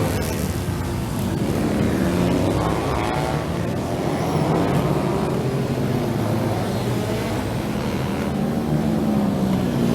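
Several racing motorcycle engines revving hard together, their pitches rising and falling over one another as the bikes accelerate and change gear.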